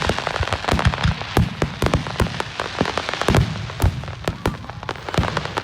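Fireworks display: shells bursting in rapid, irregular succession, a dense run of sharp bangs and crackles several a second over a steady hiss.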